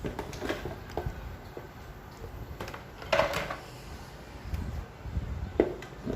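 Knocks and clatter of the plastic parts of an evaporative air cooler being handled as it is taken apart, with its fan motor lifted out. A few scattered knocks, the loudest about three seconds in.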